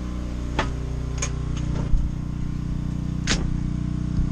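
Portable generator running steadily with a low, even hum, with a few sharp clicks or knocks over it.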